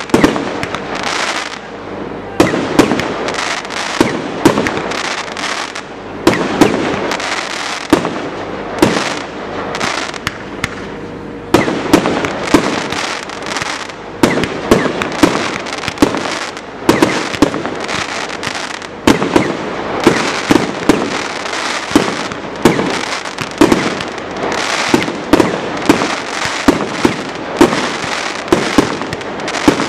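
Fireworks display: aerial shells bursting one after another, a sharp bang every second or so over a continuous noisy din of further bursts.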